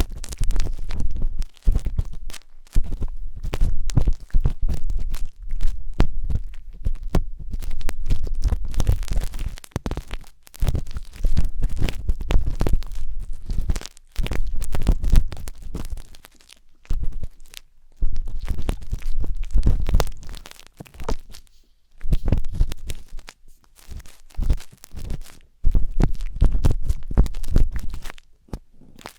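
A wooden tanghulu skewer scratching and rubbing inside the silicone ear of a 3Dio binaural microphone. It makes close, crackly scraping with a deep rumble, in bursts broken by short pauses every few seconds.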